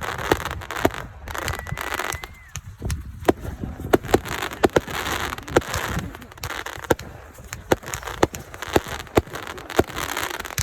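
Consumer fireworks going off in a rapid, irregular string of sharp pops over a steady crackle, with a brief whistle about two seconds in.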